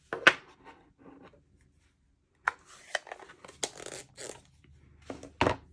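Craft supplies being handled on a table: a sharp tap just after the start, then from about halfway a run of short knocks, clicks and paper rustling as stamps, blocks and cardstock are moved and set down.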